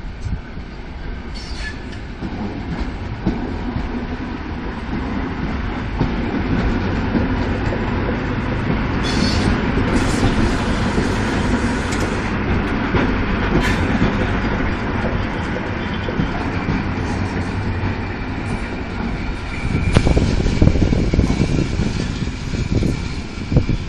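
EN57 electric multiple unit running past on the station track: a steady rumble of wheels on rail with clickety-clack, building over the first few seconds. A short high hiss comes about a third of the way in. Near the end the rumble grows louder and gustier.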